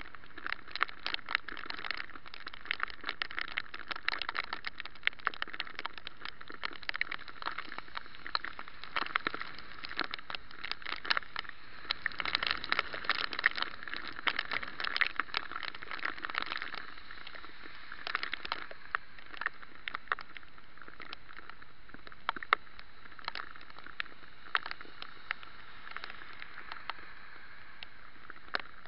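Bicycle riding through rain on a wet road, heard from a camera mounted on the bike. There is a steady wet hiss of tyres and spray. Many sharp ticks of raindrops strike the camera housing, thick over the first half and sparser later.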